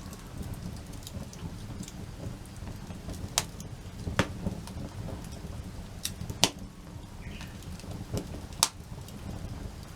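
Wood campfire burning, with a steady crackle and several sharp, loud pops over a low rumble.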